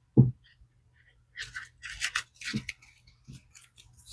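Paper banknotes rustling and scraping in short strokes as counted cash is handled and tucked away, after a dull thump just after the start.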